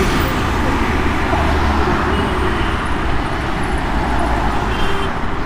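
Steady road traffic noise, a continuous low rumble of engines and tyres with no single vehicle standing out.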